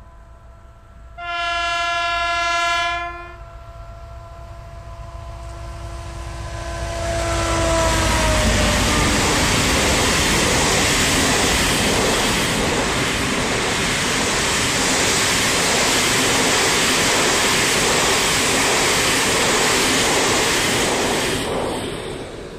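Renfe class 333 diesel-electric locomotive sounds one multi-tone horn blast about a second in, lasting about two seconds. Its tone drops in pitch as it passes, and then the freight wagons rumble and clatter past at speed for about fourteen seconds before fading out near the end.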